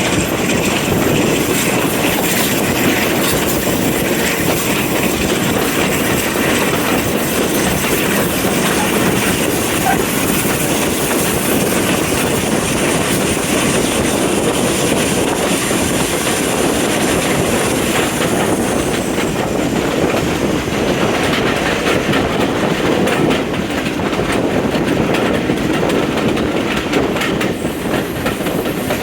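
Train running on the track, its wheels clattering steadily over the rail joints. A faint high squeal rides over it and slides down and fades out about two-thirds of the way through.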